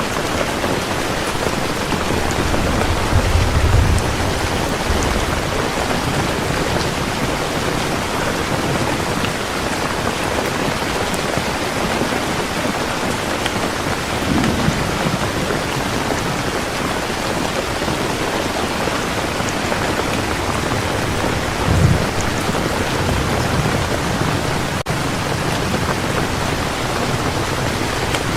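Heavy rain falling steadily, with a few low rumbles of thunder underneath, around three to four seconds in, near the middle and again about twenty-two seconds in.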